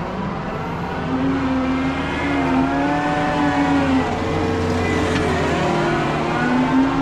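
Heavy diesel engine running under load, its pitch rising and falling as the revs change, with a deep steady drone underneath that gets louder about a second in.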